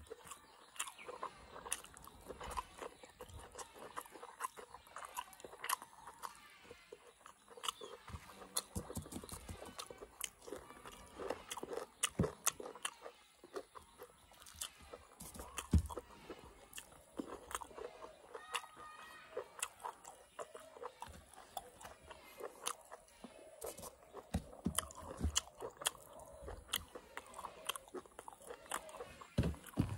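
A person chewing and crunching a mouthful of mutton curry, rice and raw green beans eaten by hand, with many small irregular mouth clicks.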